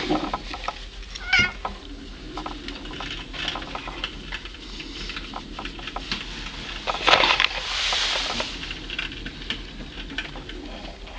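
Domestic cat making short chirping calls with quick clicks, the way a cat chatters at birds it is watching; one pitched chirp about a second in. A rushing noise swells about seven seconds in.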